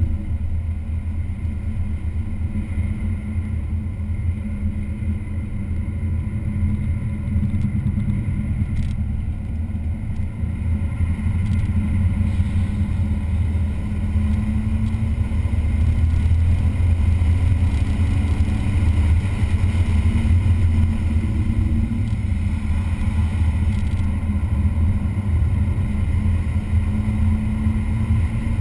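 Car engine running hard around a race track under a heavy low rumble. Its pitch climbs slowly through the middle, drops suddenly, then climbs again near the end.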